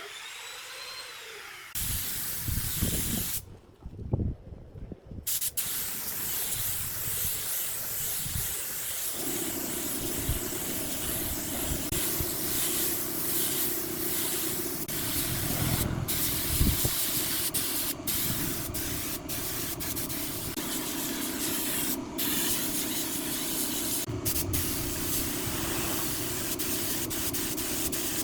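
A steady hiss from a workshop machine, broken by a brief pause near the start; about nine seconds in a steady motor hum joins it and runs on under the hiss.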